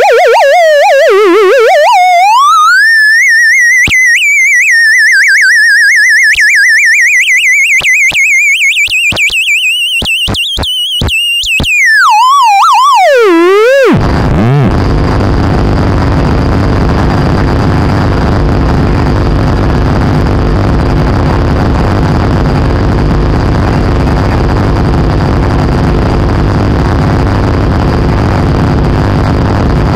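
Experimental dark ambient noise music: a wavering theremin-like tone with heavy vibrato glides up from low to high, hovers, and swoops back down, with scattered clicks. About halfway through it cuts abruptly into a dense, rumbling noise drone with a faint steady high whine.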